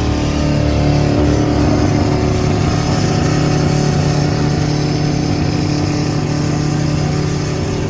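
Car engine running at steady revs.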